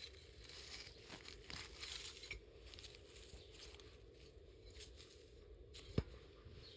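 Soft rustling and crackling of garlic plants and leaves being handled, with a single sharp tap about six seconds in.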